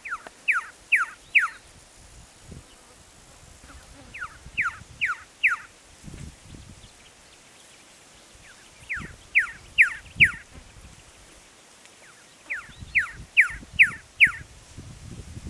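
Male red-lored whistler singing: four phrases about four seconds apart, each a quick run of four loud whistled notes that each slur downward in pitch.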